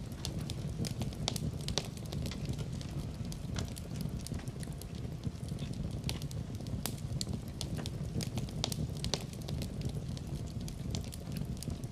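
Wood fire burning in a fireplace: frequent, irregular crackles and pops over a steady low rumble of flames.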